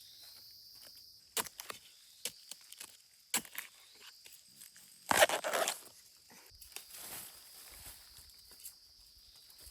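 Scattered light knocks and taps, with a louder rustling scrape about five seconds in, over a steady high-pitched drone of insects.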